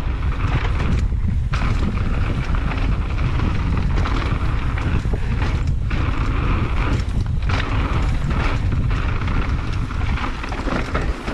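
Wind buffeting the camera microphone while a mountain bike rolls fast down a rough dirt trail, with tyre noise and scattered clatter of the bike over rocks and bumps.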